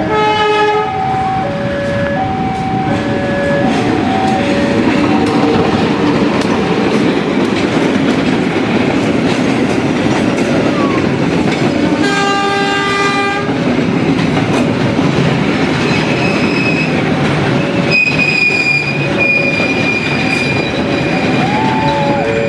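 A train passing close by, its wheels clattering steadily over the rails. The horn sounds right at the start and again for about a second and a half around twelve seconds in, and a level-crossing warning alarm alternates between two tones.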